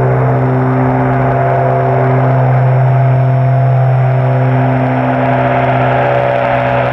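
Antonov An-22's four Kuznetsov NK-12MA turboprops with contra-rotating propellers on arrival: an unmistakable continuous low humming sound, one strong deep drone with several fainter, higher tones held steady above it.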